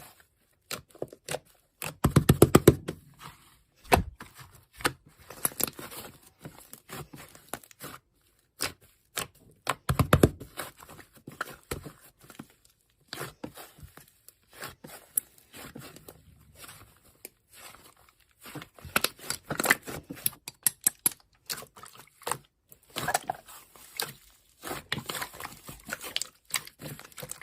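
Slime being pressed, stretched and folded by hand, giving dense irregular crackling clicks and pops, with louder clusters about two seconds in and again around ten seconds.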